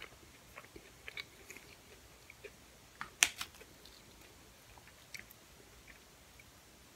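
Close-miked chewing of a fried egg roll: soft wet mouth clicks and small crackles of the crisp wrapper, with one sharp crunch about three seconds in.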